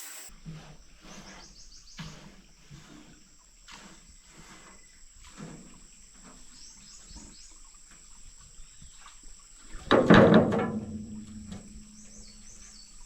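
Outdoor ambience: a steady high insect drone, a few short bird chirps and scattered light knocks, with one louder clatter about ten seconds in followed by a brief low hum.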